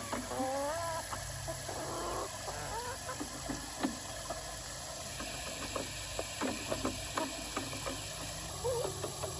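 Hens giving soft, wavering calls, with scattered light ticks over a steady hiss.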